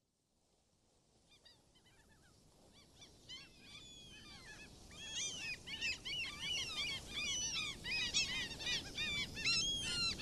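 A dense chorus of many birds calling, short arching chirps overlapping one another, fading in from silence and growing steadily louder.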